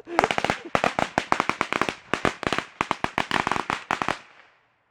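A string of firecrackers going off: a fast, irregular run of sharp bangs lasting about four seconds, then stopping abruptly.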